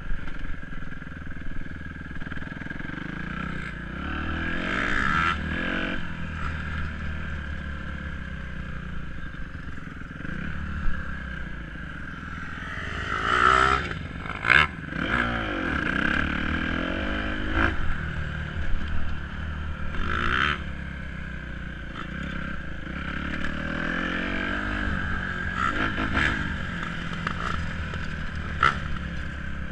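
Dirt bike engine running, its pitch rising and falling several times as the throttle is opened and closed, with a few sharp clatters around the middle.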